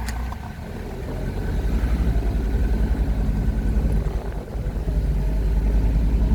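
A car driving: a steady low rumble of engine and road noise heard from inside, with a fast low throb. It dips briefly about four and a half seconds in.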